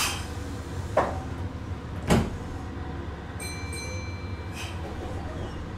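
Interior of a Meitetsu 6800-series electric train: a steady low hum with sharp clicks or knocks about once a second in the first two seconds, the loudest about two seconds in, then a brief high electronic tone lasting about a second, ending with another click.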